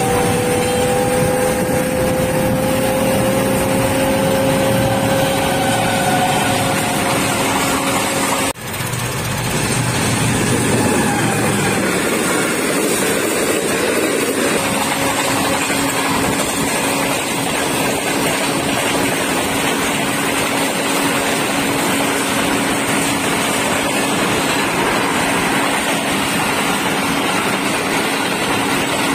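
A passenger train passing a level crossing at close range, heard over a small engine running close by. An engine drone rises slowly in pitch at first, the sound breaks off abruptly about eight seconds in, and later a steady low engine hum carries on under the train.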